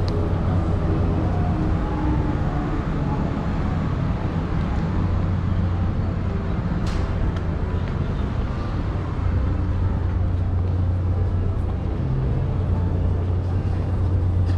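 Steady low engine rumble with a broad wash of noise over it, unchanging throughout, with one brief click about seven seconds in.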